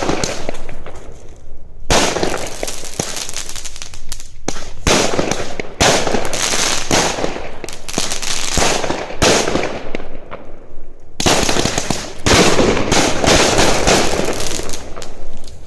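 Svea Fyrverkerier fireworks going off in loud volleys of rapid bangs and crackles, with short pauses between volleys.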